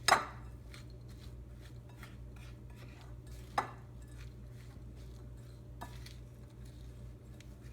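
A utensil knocking and clinking against a bowl while stirring poppy seed into a buttered cracker-crumb mixture. The loudest clink comes right at the start, another about three and a half seconds in, and a faint one near six seconds, over a steady low hum.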